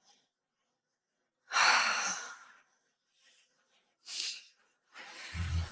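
A person's breathing: a heavy exhale about a second and a half in, then two shorter breaths.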